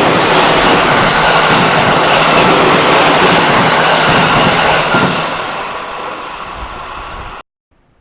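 Train passing close by at speed, a loud rushing rail noise that fades after about five seconds and then cuts off suddenly near the end.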